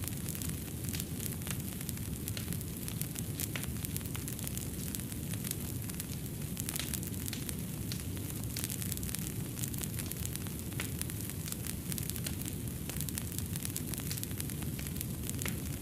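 Fireplace fire crackling: a steady low rumble of flame with many small, sharp, irregular pops.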